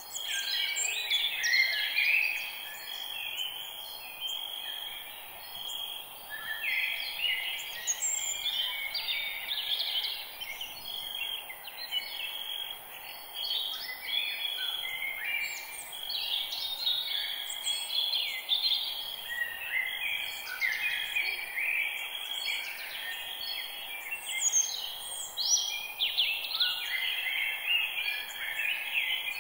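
Several birds singing at once in a forest dawn-chorus style: many overlapping chirps, trills and short whistled phrases with no pause, over a steady faint high hiss.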